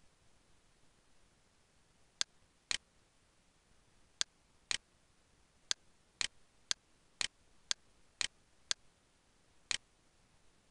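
About a dozen sharp, single computer mouse clicks over a faint hiss, beginning about two seconds in, several at an even half-second spacing.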